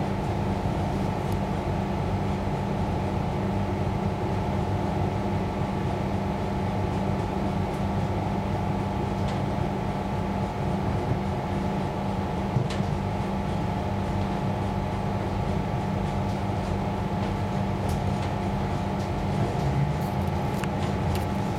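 Steady running noise inside a moving suburban passenger train carriage: a constant hum with a few held tones over the rumble of the wheels on the track, with a couple of faint ticks near the end.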